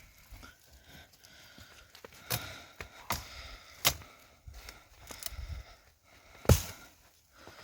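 Firewood being chopped: a run of sharp wooden strikes, about four main blows with smaller knocks between them, the loudest near the end.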